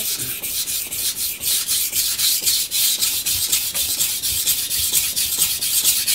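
Knife blade stroked back and forth on a coarse, wet Miyagoshi waterstone: an even run of quick gritty strokes. The stone is grinding out a nick in the edge, raising a burr.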